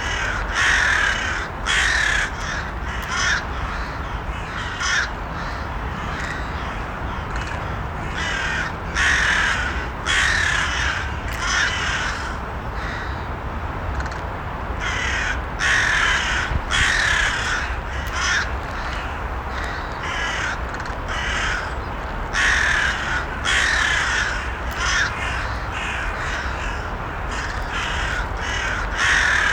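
Crows cawing: many short, harsh caws at irregular intervals, sometimes several in quick succession, over a steady low background noise.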